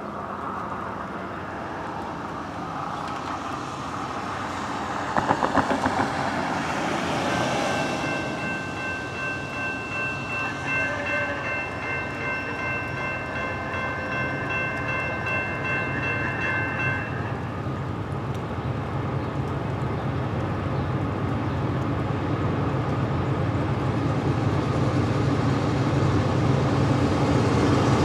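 An approaching diesel freight train heard before it comes into view, a Norfolk Southern GE D9-40CW locomotive leading: a low rumble that grows steadily louder. A brief clatter about five seconds in, and a steady high tone held for about ten seconds in the middle.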